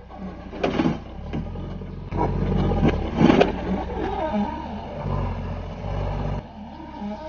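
Farm tractor engine running. It gets louder about two seconds in and drops back near the end, with several sharp clatters along the way.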